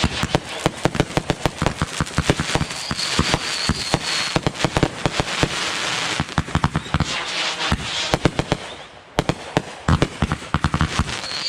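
Consumer fireworks going off in a rapid, dense string of bangs and crackles, with a thin high whistle around three seconds in. The bangs thin out briefly just before the nine-second mark, then start again.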